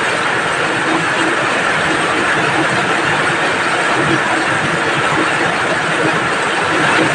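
Steady rain falling: a loud, even hiss of water with no breaks.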